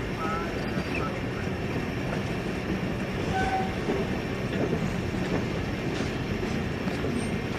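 Canadian Pacific train running along the rails: a steady rumble with the clickety-clack of the wheels.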